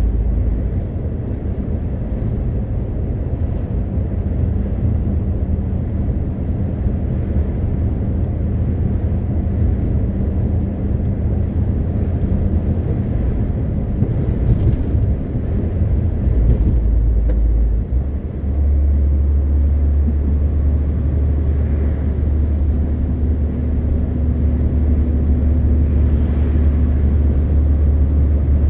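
MAN TGX 520 truck's straight-six diesel engine running under way, a steady low drone with road noise. About two thirds of the way through the sound dips briefly and the engine note then settles at a new steady pitch.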